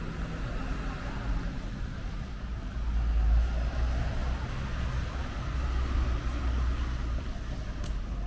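A motor vehicle's engine running close by on the street, growing louder about three seconds in and easing off near the end.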